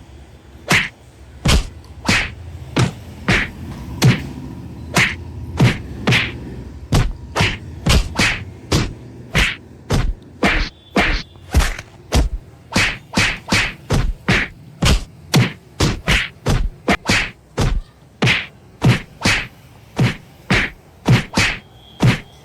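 Sharp whacking strikes repeated at an even pace of about two a second, one after another without a break.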